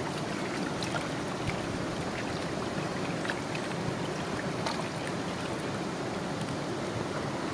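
Steady rushing of flowing water, like a stream over rocks, with a few faint light ticks scattered through it.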